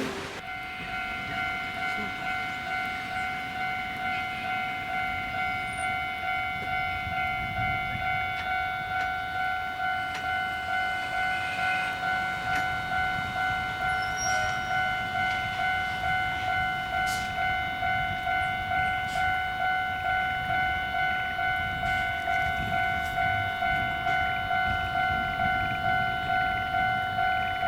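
Japanese railway level-crossing warning bell ringing in a steady, even pulse of a bit more than one stroke a second, slowly growing louder, over a faint low rumble.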